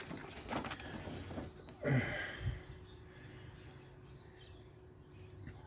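Quiet room tone with one short falling bird call about two seconds in.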